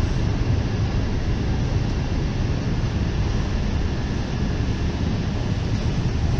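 Container freight train's loaded flat wagons running past: a steady rumble of wheels on the rails.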